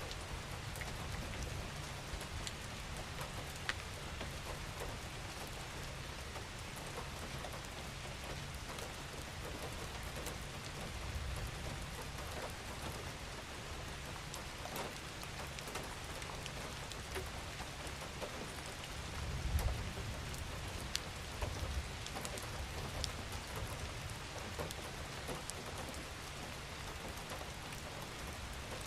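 Steady rain falling, with scattered individual drops ticking and a low rumble underneath that swells briefly about two-thirds of the way through.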